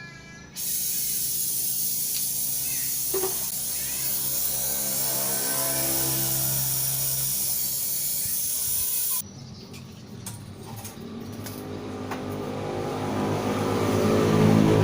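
Pressurised gas hissing loudly out of refrigeration pipework. It starts suddenly and cuts off after about eight and a half seconds. After it, an engine-like hum rises in pitch and grows louder toward the end.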